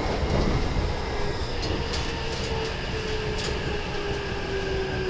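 Keikyu 1000-series electric commuter train running, heard from inside a passenger car: a steady rumble of wheels on rail, with a few sharp clicks and a thin whine that slowly falls in pitch.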